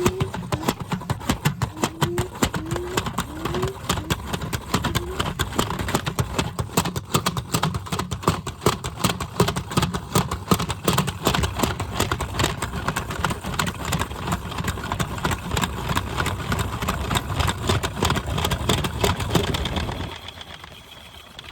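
Washing machine shaking and rattling hard with rapid knocking over a low rumble, the sign of an unbalanced load. It stops abruptly near the end.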